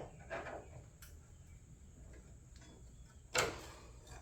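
A few clicks and taps of metal being handled while a sheet-steel hood patch panel is clamped into place, the loudest a sharp click about three seconds in.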